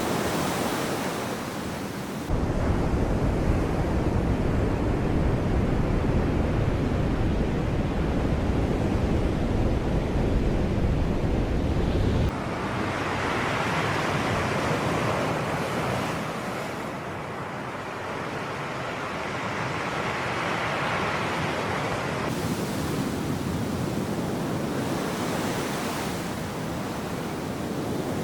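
Sea waves washing in and out in slow swells. A deep wind rumble on the microphone cuts in abruptly a couple of seconds in and cuts out just as abruptly about ten seconds later.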